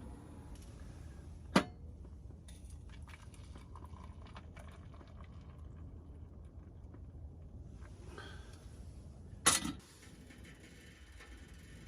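Two sharp knocks, about eight seconds apart, the second followed by a brief rattle, with faint light ticks in between over a low steady background.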